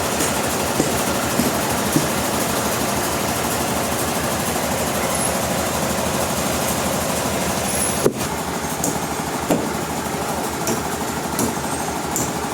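Sawmill machinery running steadily, a loud even mechanical din with scattered light knocks. It breaks off abruptly about eight seconds in and continues slightly changed.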